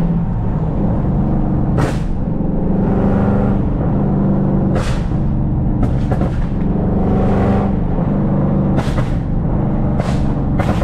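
Tuned Dodge Charger Scat Pack's 6.4-litre HEMI V8 exhaust running under changing throttle, with about six sharp exhaust pops through the stretch.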